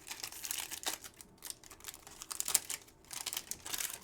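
A foil football trading-card pack wrapper being torn open and crinkled by hand, in irregular bursts of crackle.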